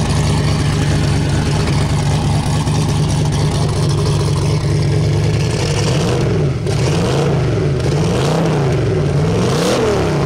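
Big single-turbo Corvette V8 running at a steady idle, then given several quick throttle blips from about six seconds in, the pitch rising and falling with each.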